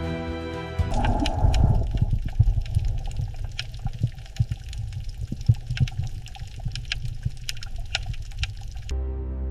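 Water bubbling and gurgling over a low rumble, with many irregular pops and clicks. Music fades out about a second in and comes back shortly before the end.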